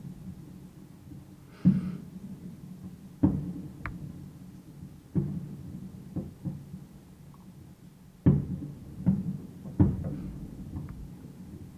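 Aerial fireworks bursting: a string of separate deep booms, one to two seconds apart and sometimes in quick pairs, each trailing off in a rolling echo.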